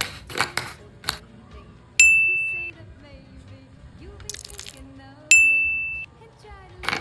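Two bright bell-like dings about three seconds apart, each ringing for under a second and then cut off, with several short swishes and clicks between them, like added video-editing sound effects.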